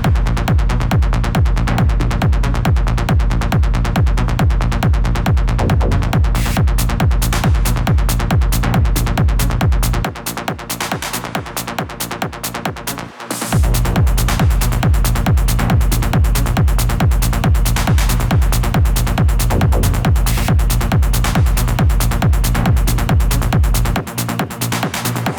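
Techno track played in a DJ set: a steady, regular kick-drum and bass pulse under layered electronic sounds. The kick and bass drop out for about three seconds near the middle, then come back in, and drop out again near the end.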